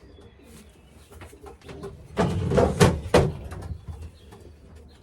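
Racing pigeons cooing softly in the loft. About two seconds in comes a loud burst of rustling with a couple of sharp knocks, lasting about a second.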